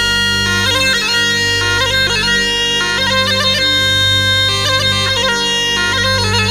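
Tulum, the Black Sea bagpipe, playing a quick, ornamented folk melody over a steady drone.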